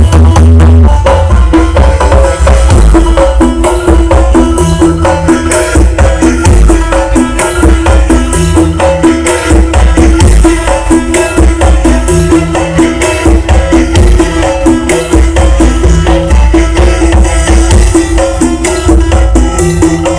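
Very loud dance-remix music blasting from a carnival 'sound horeg' sound system, with heavy bass and a busy hand-drum-style percussion rhythm.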